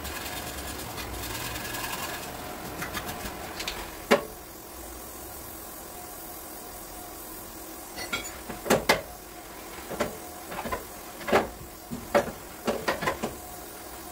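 Irregular metallic knocks and clicks in a body shop: one sharp knock about four seconds in, then a scattered run of taps and clanks in the second half, over a steady low background.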